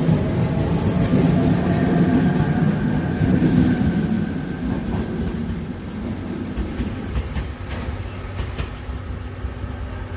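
Tobu 100 series Spacia electric train pulling out of the station: a steady motor whine over the rumble and clatter of wheels on rail. It grows fainter from about halfway through as the train moves away.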